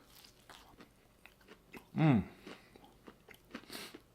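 Close-up chewing and biting of a crunchy air-fried chicken sandwich: faint scattered crunches and mouth clicks. About two seconds in, the eater gives a short hum that falls in pitch, and near the end there is a brief breathy hiss.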